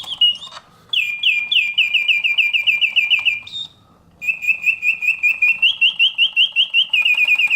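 Mechanical bird song from a 1970 Reuge singing bird cage automaton, its bellows-driven whistle warbling. A short falling whistle is followed by a fast run of chirps, about five a second; after a brief pause a little past the halfway mark, a second long run of chirps follows.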